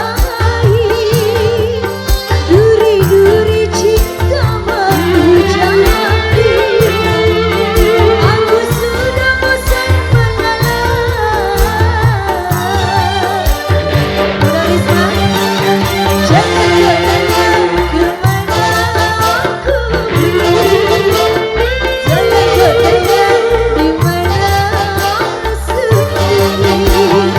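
Live dangdut band playing, with a steady drum beat under a wavering lead melody and no words sung.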